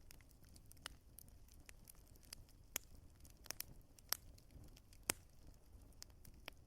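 Wood fire crackling: irregular sharp pops and snaps, a few louder than the rest, over a soft low rumble of the flames.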